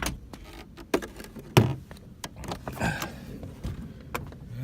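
Clunks and knocks of tools and other objects being handled inside a Jeep's cabin, four or five separate knocks with the loudest about a second and a half in, and a stretch of rustling around three seconds in.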